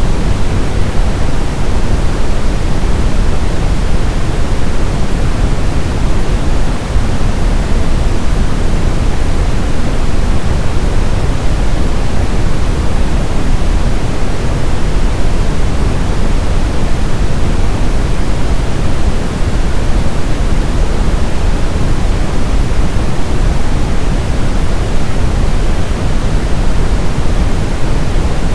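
Brown noise: a loud, steady, deep rumbling hiss with its energy weighted toward the low end and no changes or events.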